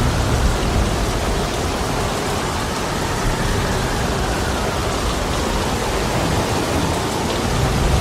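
Heavy rain falling steadily as a dense, even hiss. A deep low rumble sits under it at the start, eases off in the middle and swells again near the end.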